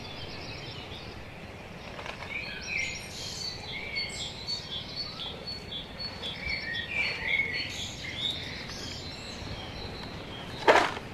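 Birds chirping with many short, repeated calls over steady outdoor background noise. Near the end comes one loud, sharp clatter.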